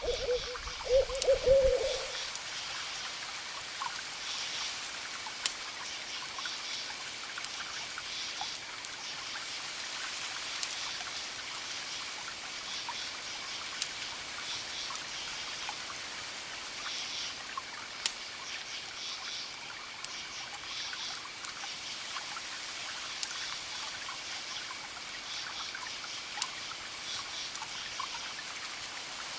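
An owl gives a short, wavering hoot in the first couple of seconds, the loudest sound here. Crickets chirp in repeating pulsed groups throughout, and a campfire crackles with scattered sharp pops.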